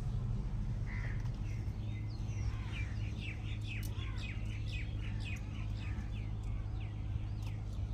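Small birds chirping in a quick run of short, falling chirps for several seconds, over a steady low hum.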